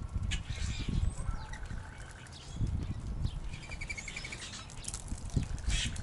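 Wild backyard birds calling: scattered chirps, a short run of even whistled notes, a fast trill and a sharp high squeak near the end, over a low rumbling noise.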